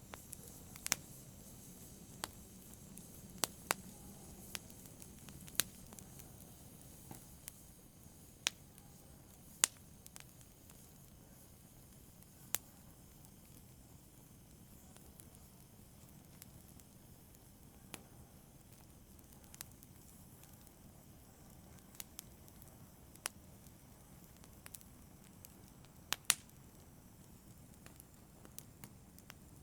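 Fire crackling softly: sparse, irregular sharp pops and snaps over a faint low hiss, a little busier in the first half.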